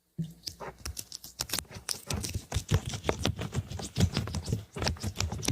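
Close-miked ASMR scratching and tapping: a dense run of quick clicks and scratches with soft low thuds, starting just after a moment of silence.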